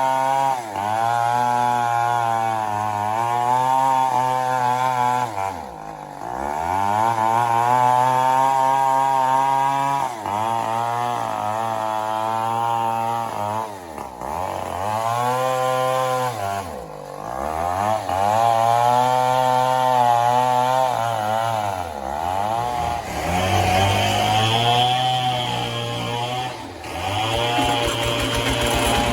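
Petrol chainsaw cutting into a mahogany trunk. The engine note sags several times as the chain bogs down in the cut, then climbs back to full revs. Near the end it settles to a higher, steadier note.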